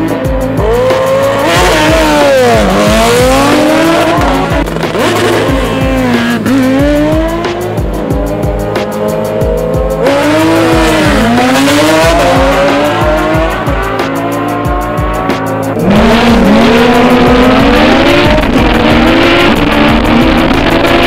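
Racing engines revving and tyres squealing, in pitches that sweep up and down, over loud music with a heavy, steady beat.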